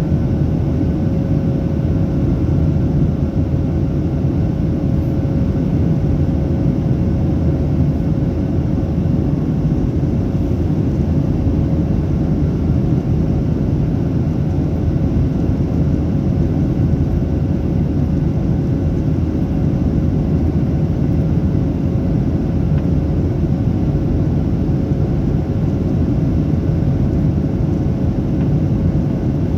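Inside the cabin of a Boeing 737-800, its CFM56 engines running at steady power: a loud, even rumble with a steady whine held above it.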